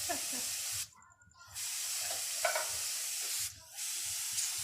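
Paint spray gun hissing in three bursts as the trigger is pulled and released, with two short breaks.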